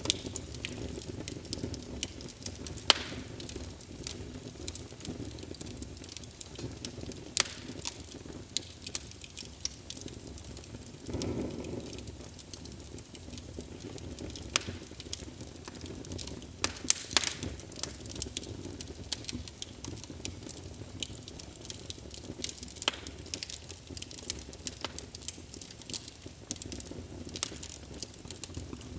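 Wood fire burning in a fireplace: a steady low rumble of flames with frequent crackles and sharp pops from the burning logs, and a brief louder whoosh about eleven seconds in.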